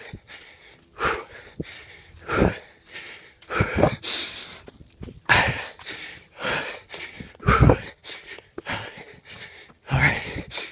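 A man panting hard, heavy wheezing breaths in and out about once a second, from the exertion of running nonstop up a steep hill.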